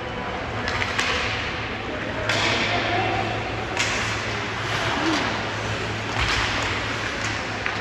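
Ice hockey play in a rink: a few sharp knocks and swishing scrapes from sticks, puck and skates on the ice, echoing, over a steady low hum.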